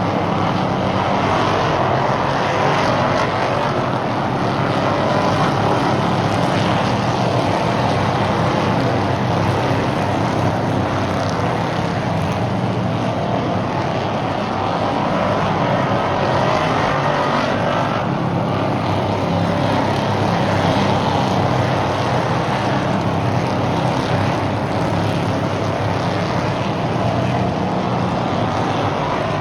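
A field of oval-track stock cars running at race speed, their engines blending into one continuous drone. The pitch rises and falls repeatedly as cars accelerate off the turns and pass by.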